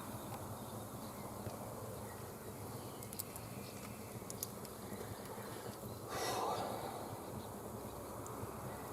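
Campfire burning with a few faint crackles, and a louder rush of noise lasting about a second, around six seconds in.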